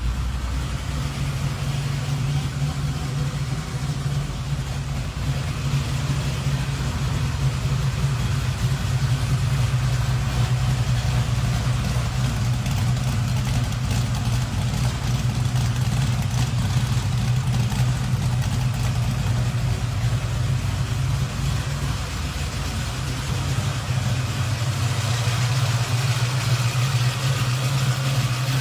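Car engine idling steadily, an even low running note with no revving.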